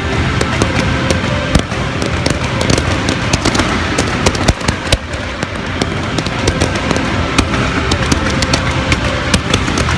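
Fireworks display: a rapid, irregular string of sharp bangs and crackles, several a second, with a louder single bang about one and a half seconds in and another near five seconds.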